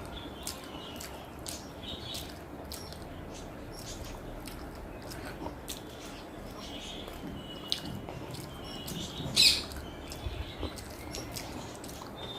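Close-up eating sounds: wet chewing with frequent lip-smacking clicks and short squeaky mouth noises, one louder smack about nine and a half seconds in.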